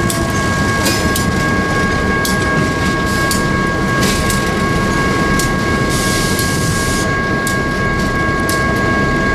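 A train rolling past with a heavy, steady rumble, its wheels clicking irregularly over rail joints. Several steady high-pitched tones ring over the rumble.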